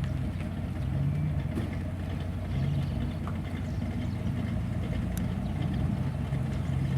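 American car's engine idling, a steady low hum.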